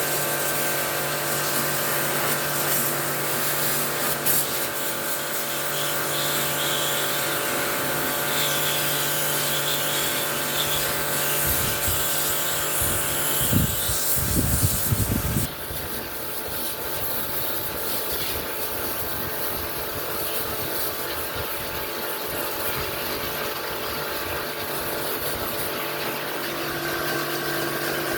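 A machine's electric motor hums steadily under a loud hiss. A few low thumps come past the middle, and right after them the hiss drops off sharply while the hum runs on.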